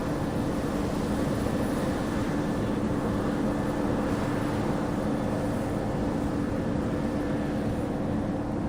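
A steady mechanical hum holding one low pitch with a fainter overtone above it, over a haze of noise, without letting up.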